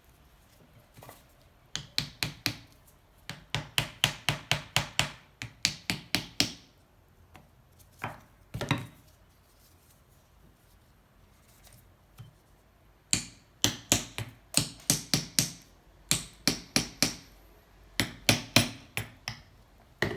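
Hammer blows in quick bursts of several strikes a second, with short pauses between the bursts.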